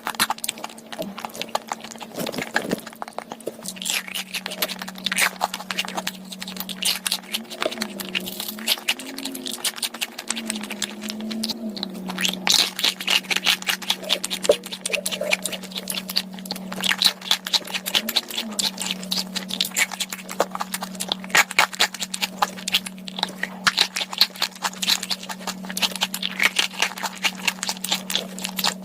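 Someone eating fruit and snacks close to the microphone: continuous irregular crunching, crackling and chewing, with a steady low hum underneath that wavers in pitch a few times.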